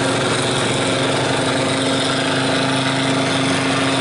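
Vehicle engine idling steadily at an even speed, a constant hum with no revving.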